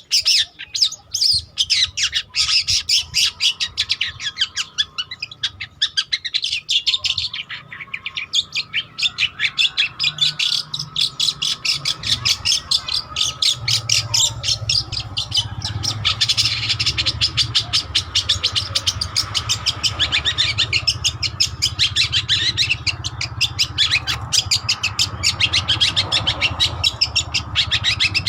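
Long-tailed shrike (cendet) singing in fast runs of short chattering notes, the vigorous 'gacor' song used to provoke or tutor other songbirds. From about halfway through, a steady low hum runs underneath.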